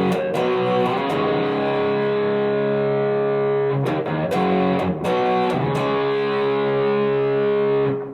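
Electric guitar chords through a Donner Morpher distortion pedal, gain at noon and tone knob all the way down, so the sound is dark with little top end. Chords are strummed at the start and again about four seconds in, left to ring, and stop near the end.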